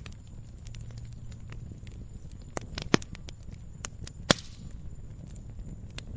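Firewood burning with a steady low rush, full of small crackles, and a few sharp loud pops and snaps around the middle.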